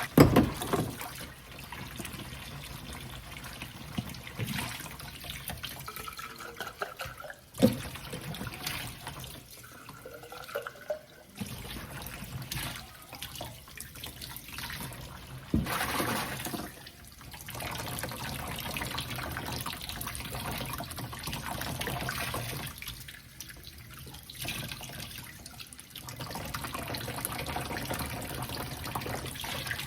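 Kitchen tap running into a sink while small hummingbird feeder parts are swished and rinsed under it, the water sound rising and falling as they are moved about. A few sharp knocks stand out, one about eight seconds in and another about sixteen seconds in.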